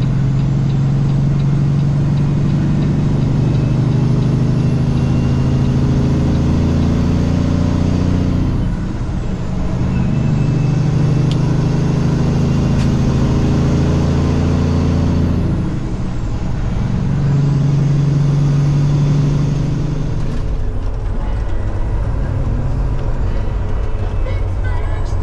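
Diesel semi-truck engine pulling under load, with three gear changes where the sound briefly drops away and then picks up again.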